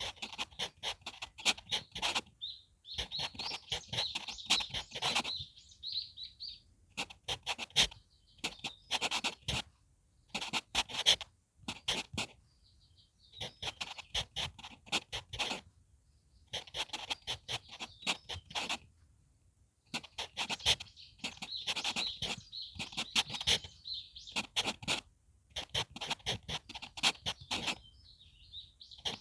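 HB pencil writing on paper manuscript sheets in bursts of quick scratching strokes, with pauses of a second or two between groups of strokes. Birds chirp in the background.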